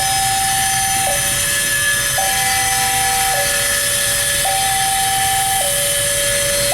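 Electronic two-tone warning alarm switching between a higher and a lower pitch about once a second, over a steady rushing noise.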